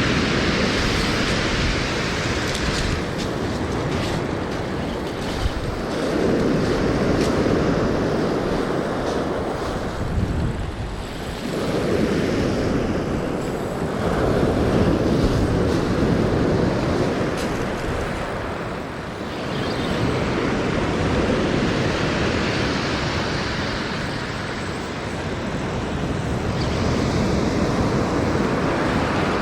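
Ocean surf breaking and washing up the beach, rising and falling in broad surges every six to eight seconds.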